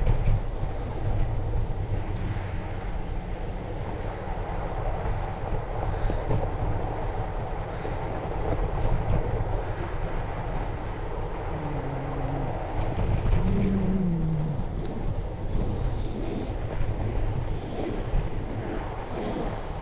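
Wind rumbling on a GoPro's microphone and the fat bike's riding noise on a snowy trail, a steady low din. A couple of brief low tones that shift in pitch come in near the middle.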